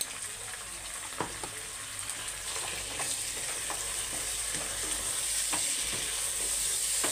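Chicken pieces and chopped onion sizzling in hot oil in a non-stick kadhai while a wooden spatula stirs them, with a few light taps and scrapes of the spatula against the pan. The sizzle grows louder over the last few seconds as the turmeric is mixed in.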